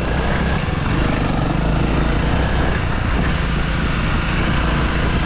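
Honda CRF300L dirt bike's single-cylinder four-stroke engine running steadily while riding.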